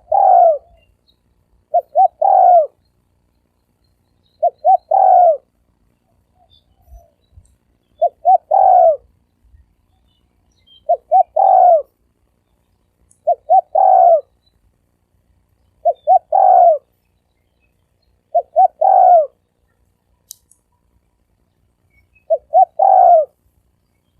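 Spotted dove cooing in the deep 'thổ sấm' voice: the same phrase of two short notes and a longer note, repeated about every two and a half seconds, with one longer pause near the end.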